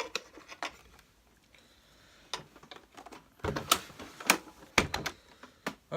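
Hard parts of a vacuum cleaner being handled during reassembly: a series of sharp clicks and knocks, sparse at first and loudest from about three and a half to five seconds in.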